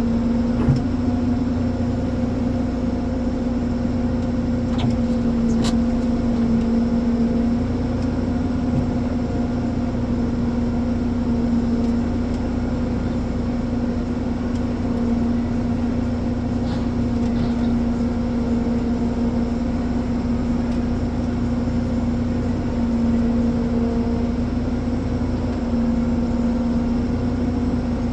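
Ponsse Elephant forwarder's diesel engine running at a steady speed: a constant, even hum. A few faint clicks come about five seconds in.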